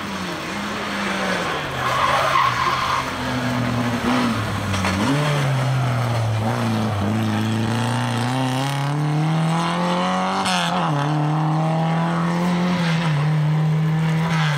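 Lada 2107 rally car's engine driven hard on a stage, its revs falling and climbing through gear changes and lifts, with tyres squealing briefly about two seconds in.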